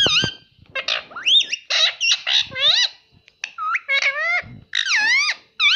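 Ringneck parrot calling in a rapid string of short, high, whistly calls that bend up and down in pitch, with a few harsher squawky calls mixed in.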